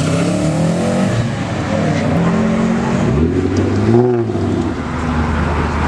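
Car engines revving loudly, one rising in pitch and falling again about four seconds in, over the steady running of other engines.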